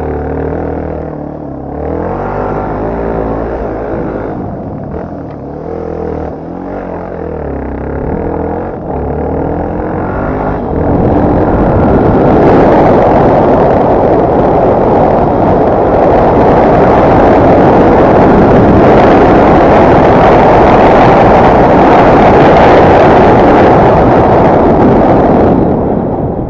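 Dirt bike engine revving up and down through the throttle, its pitch rising and falling. About eleven seconds in, a loud, steady rush of wind noise on the microphone drowns it out, then eases off near the end.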